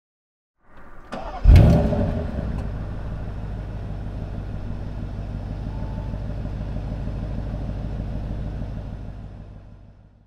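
Bentley Flying Spur V8's twin-turbo V8 engine started: a brief crank, then it catches with a loud flare about one and a half seconds in and settles into a steady idle that fades out near the end.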